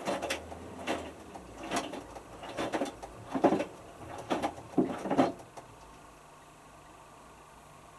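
Hotpoint Futura HF8B593 front-loading washing machine's drum tumbling a small load of three T-shirts, a swish and thud about once a second. The drum stops about five and a half seconds in, leaving a faint steady hum.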